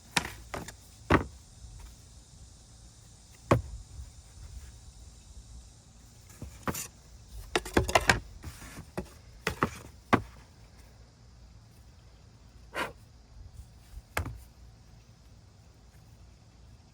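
Scattered sharp knocks and taps of birch plywood panels being handled and set against a hard surface, a cluster of quick ones in the middle and single ones before and after.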